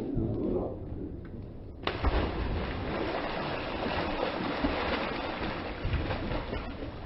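Steady rumbling noise with no distinct source; about two seconds in it changes abruptly to a fuller, louder rumble.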